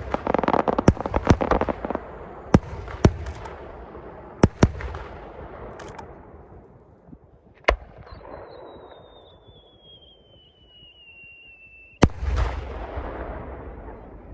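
Aerial fireworks bursting: a quick run of sharp bangs over crackling during the first few seconds, a lone bang midway, then a whistle falling slowly in pitch for about four seconds that ends in a loud bang with a rumbling, crackling tail.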